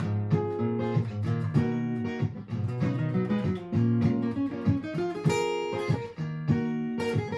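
Martin GPCPA4 acoustic guitar improvising with plucked notes over a looped guitar part from a looper pedal, with a brighter strummed chord about five seconds in.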